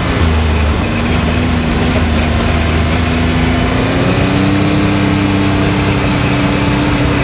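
Can-Am Maverick X3 side-by-side's turbocharged three-cylinder engine running at a steady pitch while the machine moves along the trail, the pitch rising slightly about four seconds in.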